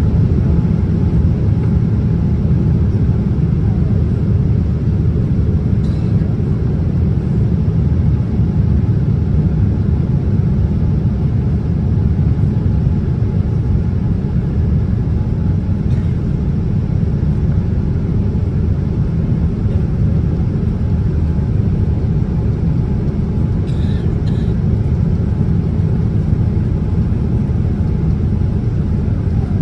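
Steady low rumble of cabin noise aboard a Boeing 787-10 airliner, the engines and airflow running evenly, with a few faint ticks.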